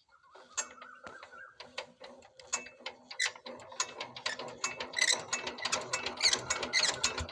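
Single-cylinder diesel power tiller engine being spun up for starting: a rapid mechanical clatter of clicks that grows faster and louder toward the end.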